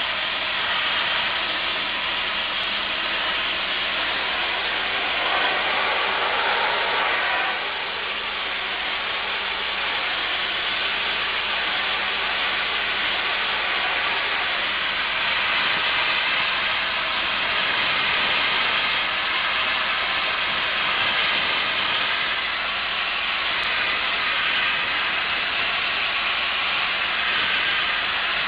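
Farrow System low-pressure wet media blasting nozzle spraying water and abrasive against a boat hull, a steady loud hiss as it strips bottom paint and antifouling from the hull.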